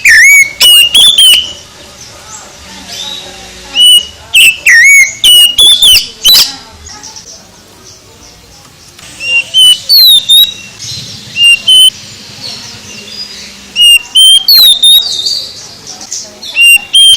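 Oriental magpie-robin (kacer) singing: loud phrases of clear whistles with rising and falling glides and sharp chirps, each a second or two long, coming about five times with short pauses between.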